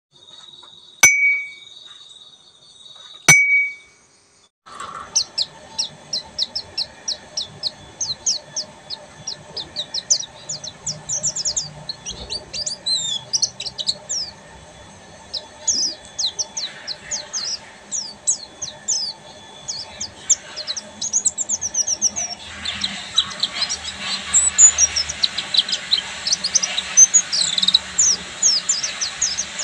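White-eye (pleci) singing a fast, continuous twittering song of rapid high chirps from about five seconds in, louder with more background hiss from about 22 seconds. Before it come two sharp clicks, each followed by a brief tone.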